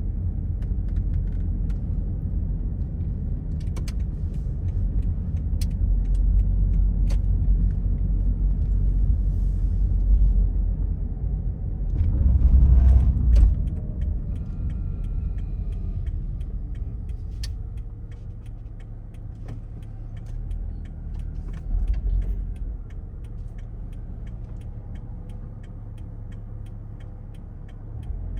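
A car driving along a road: a steady low rumble of tyres and engine, swelling louder for a second or so about halfway through and then settling lower. Faint, evenly spaced ticks run through the latter part.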